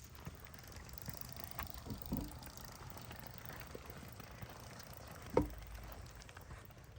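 Faint background ambience with a few soft knocks and handling noises. The sharpest tap comes a little after five seconds in.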